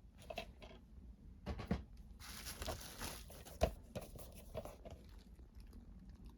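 Packaging being torn open and handled: rustling and taps, then a ripping tear of about a second, followed by crinkling and a sharp knock.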